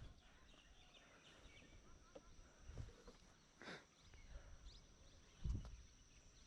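Quiet outdoor ambience: a faint steady high insect drone with scattered faint bird chirps, and two soft thumps, one just before the middle and a lower one near the end.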